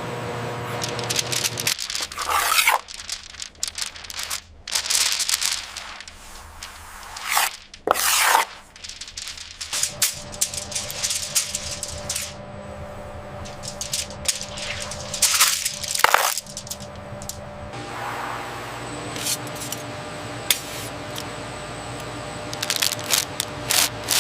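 Hand scraping and rubbing strokes over a surface, coming irregularly several times, over quiet steady background music.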